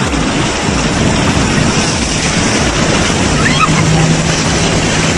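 Loud, steady rushing noise of a heavy rainstorm and floodwater. A low steady hum joins about three and a half seconds in.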